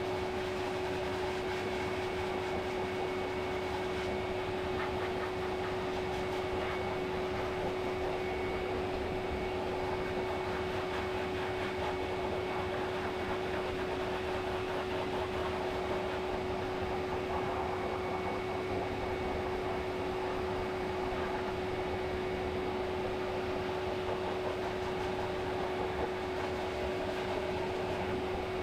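Pet grooming dryer running steadily: an even blowing rush of air with a constant motor hum.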